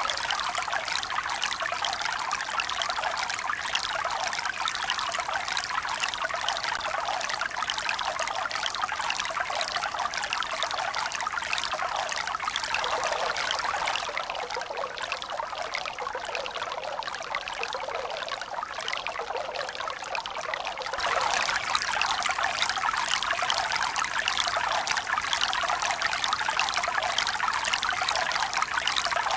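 Running water splashing and trickling steadily. Just before halfway it turns a little quieter and duller, then comes back at full strength abruptly about two thirds of the way through.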